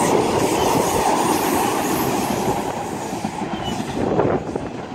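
Class 350 Siemens Desiro electric multiple unit passing through the station, a loud rumble of wheels on rails that begins to fade about three seconds in as the train goes by.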